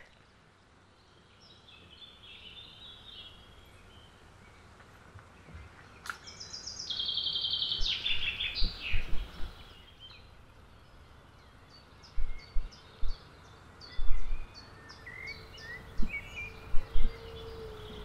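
Small birds singing: scattered high phrases, one clear run of notes about halfway through, then a string of quick high ticks. Low thumps on the microphone are the loudest sounds in the second half, and a faint steady hum starts near the end.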